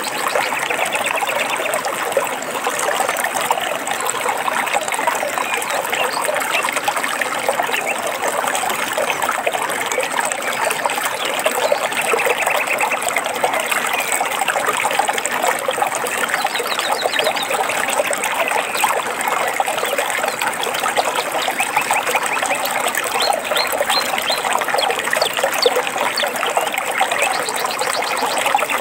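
Running water trickling and splashing steadily, with short bird trills several times over it.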